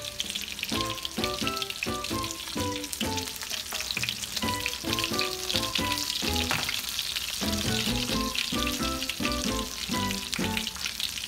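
Coconut-breaded chicken strips frying in hot oil in a skillet: a steady crackling sizzle. Background music of short, quick melodic notes plays over it.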